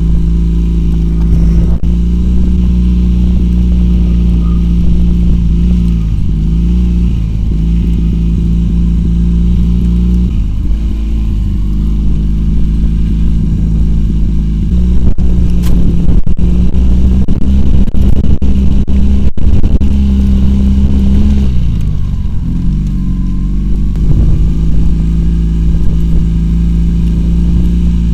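Homemade ATV's two-cylinder Oka car engine running under load, its pitch shifting several times as the throttle and gears change. It gets louder for several seconds in the middle, with a few sharp knocks.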